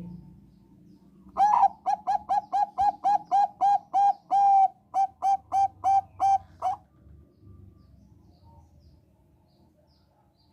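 Zebra dove of the Thai 'bangkok' type singing: a quick run of about eighteen short, clipped cooing notes, roughly three a second, with one longer note midway, lasting about five seconds before it stops.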